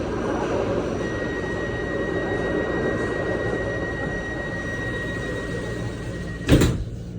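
Steady train rumble with a thin high whine, then a single loud thump about six and a half seconds in.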